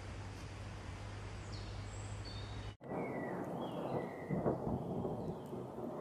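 Birds chirping: a few short, high, falling chirps over a steady hiss. Then the sound cuts abruptly to another recording, where scattered bird calls sound over a low rumble that peaks about four and a half seconds in.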